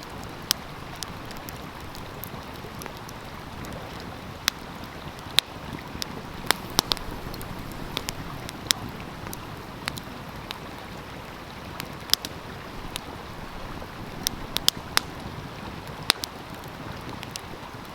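Wood fire crackling with sharp irregular pops, over the steady rush of a flowing stream.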